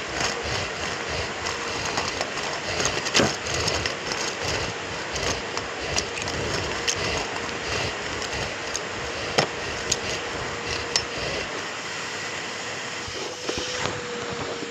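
Numatic James cylinder vacuum cleaner running, heard close up from a microphone on the machine: a steady motor hum under dense crackling and scattered sharp clicks. A low rumble drops away near the end.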